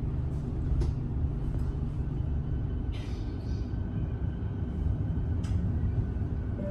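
Electric suburban train heard from inside the carriage as it moves slowly past the platform: a steady low rumble of motors and wheels, with a few light clicks and a short hiss about three seconds in.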